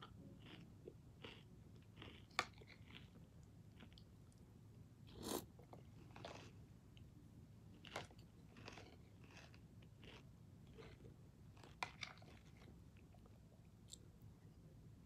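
Faint close-up chewing and crunching of Cinnamon Toasters, an off-brand cinnamon toast crunch cereal, in irregular mouthfuls. A few sharp clicks are scattered through it.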